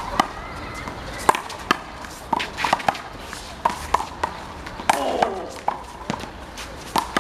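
A one-wall handball rally: a rubber handball smacked by bare hands and slapping against the wall, a dozen or so sharp hits at uneven intervals.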